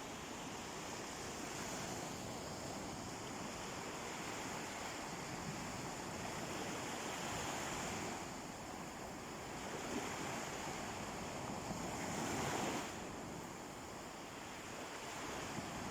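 Sea waves washing gently onto a beach, an even rush that swells and falls back, with the loudest surge about three quarters of the way through.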